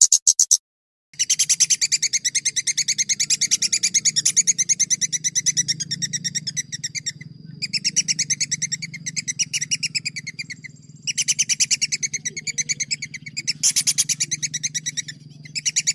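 Songbird singing long rolls: rapid runs of evenly repeated high notes, broken by two short pauses, over a low steady hum.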